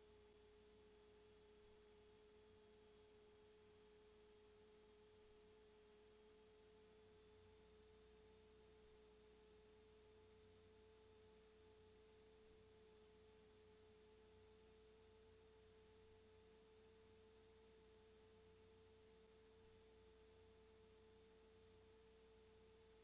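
Near silence with a faint steady tone that rises very slightly in pitch about seven seconds in.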